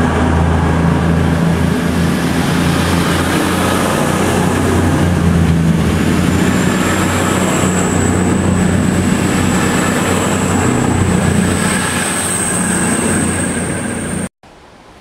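CrossCountry diesel passenger train passing close along the platform: a steady low engine drone under rushing wheel and body noise. A thin high whine comes in about six seconds in and rises slightly, and the sound cuts off abruptly near the end.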